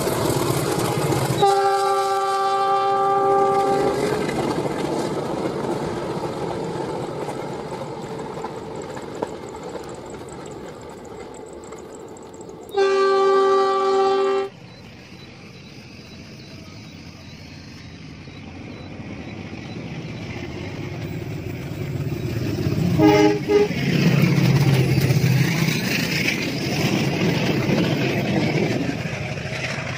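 Diesel locomotive horn sounding a long chord-like blast a couple of seconds in and a shorter one about halfway, over the steady rumble of a passenger train. Near the end the rumble grows louder as the train runs past, with a brief horn toot.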